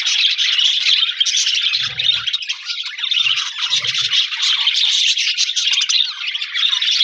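A flock of budgerigars chirping and chattering without a break, many birds at once in a dense, high warble.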